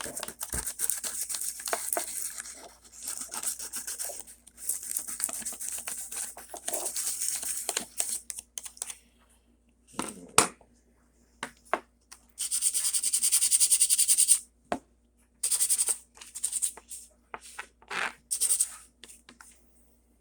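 Sandpaper rubbed by hand over hardened Bondo glazing putty on a model car roof, in short irregular strokes broken by brief pauses. A longer, steady stretch of sanding comes a little past the middle.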